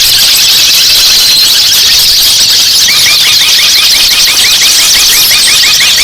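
Songbirds singing in a dense, loud chorus of high, shrill chirps and trills, with a few rising whistles. About three seconds in, a rapid run of short repeated notes starts, about six a second. This is songbird master song of the kind played to train caged birds.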